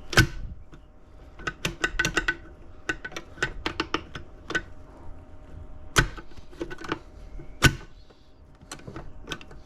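Metal transmission parts and hand tools clicking and clinking against a Honda K-series gearbox case during reassembly: quick runs of light ringing taps, with a few sharper knocks near the start and about six and seven and a half seconds in.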